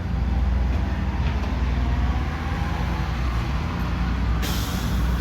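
A vehicle engine running with a steady low rumble, and a short sharp burst of air hiss near the end.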